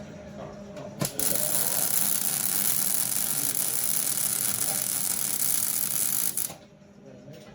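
MIG welder arc on chromoly chassis tubing: a steady crackling hiss that starts about a second in and cuts off sharply near the end, tack-welding a new bar in place.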